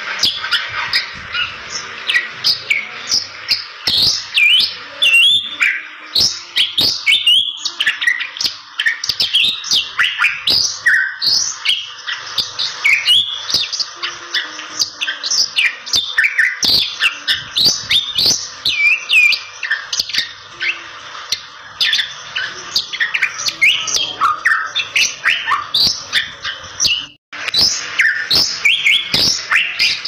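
Bali myna singing energetically: a fast, continuous run of short chirps and whistles over a steady hiss, cutting out for a moment about 27 seconds in.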